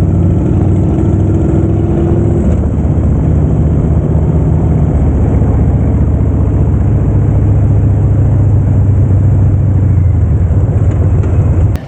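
Harley-Davidson V-twin motorcycle engine running under way, a loud steady low drone whose pitch shifts a couple of seconds in.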